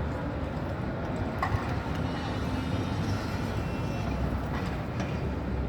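Tram running on its rails: a steady low rumble, a single knock about one and a half seconds in, and a faint high whine through the middle.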